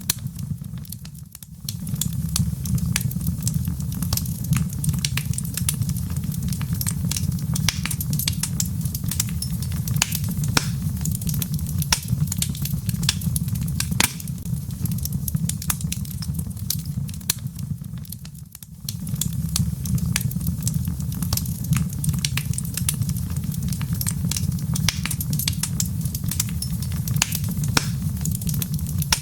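Log fire crackling, with irregular sharp pops and snaps over a steady low rumble. The rumble dips away briefly twice.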